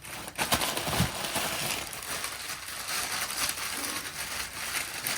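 Rustling and crinkling with many light clicks and clinks as objects are handled and unpacked from a box, with one sharper knock about a second in.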